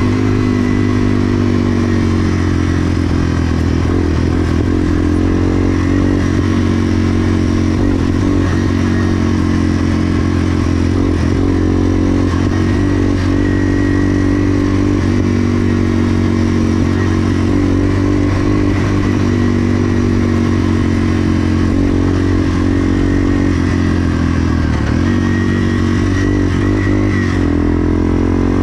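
1987 Yamaha TW200's single-cylinder four-stroke engine running hard while the bike is ridden fast. The engine pitch holds mostly steady, dipping briefly several times.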